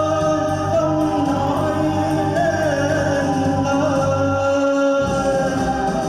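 A song sung over instrumental backing music, the voice holding long notes. The low accompaniment drops out briefly about five seconds in, then comes back.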